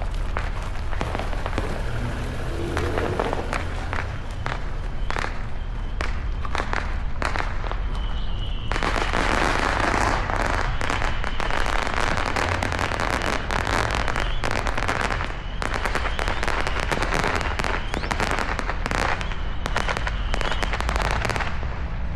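Fireworks going off in rapid succession, a string of sharp bangs and crackling pops. About nine seconds in the pops get much denser and a rushing hiss joins them until near the end, all over a steady low rumble.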